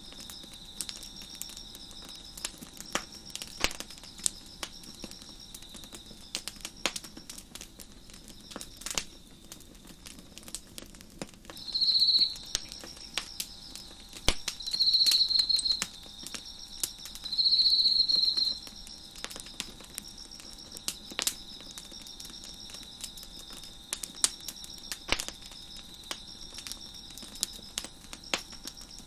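Wood fire crackling with scattered sharp pops over a steady high trill of chirping crickets. Near the middle, three louder insect chirping bursts of about a second each stand out above the rest.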